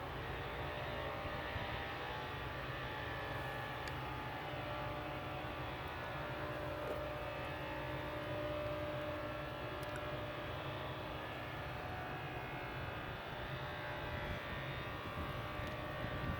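Steady drone of distant engines, a low rumble with faint humming tones over it, holding an even level with no single event standing out.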